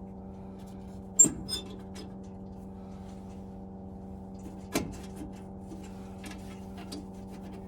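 A few sharp clicks and knocks of a screwdriver working at a rounded-off screw in a boiler's fan assembly, the loudest about a second in and another near the middle, over a steady low hum.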